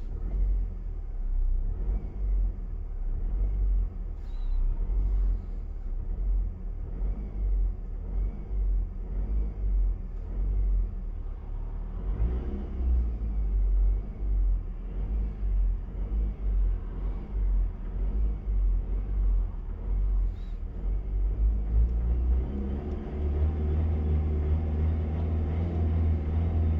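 Car engine being revved over and over in short blips, about one a second, each swelling up and falling back. Near the end the engine is held at a steadier, higher speed.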